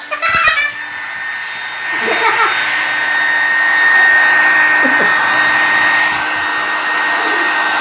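Hair dryer running steadily: a rush of blown air with a steady high whine, growing louder about two seconds in.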